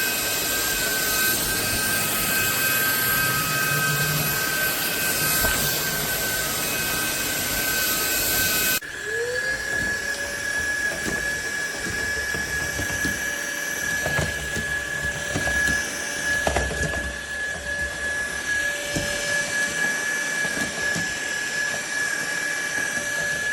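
SMOTURE cordless stick vacuum's motor running with a steady high whine. A little under nine seconds in, the sound changes abruptly to a slightly higher whine. A second, lower tone rises in with it, and scattered knocks and clicks follow as the vacuum is worked.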